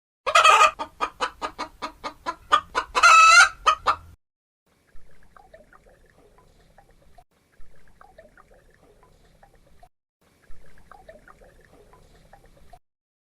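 Chicken clucking in a quick run of about four calls a second for some four seconds, ending in a longer, drawn-out call. Three much fainter stretches of sound follow.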